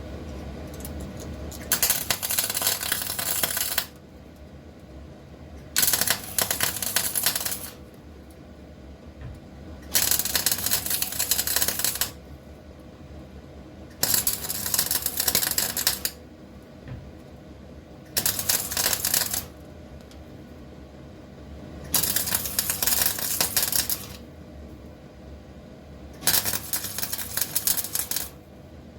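Welding on a car's steel sill panel: seven short stitch welds, each a crackling burst of about two seconds, with pauses of about two seconds between them and a steady hum underneath.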